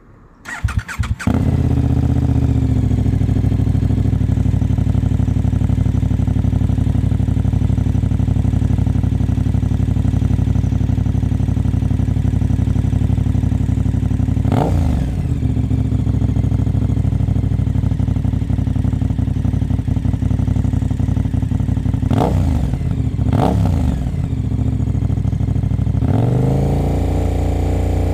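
KTM 1290 Super Adventure S's 1301 cc LC8 V-twin, with the stock exhaust's dB killer and last baffle removed, starts about a second in and settles into a steady idle. It gets three short throttle blips, one in the middle and two close together later, and the idle steps up slightly near the end.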